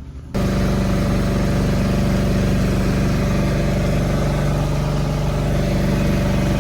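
An engine running steadily, loud and even, with a constant low hum. It starts suddenly a moment in.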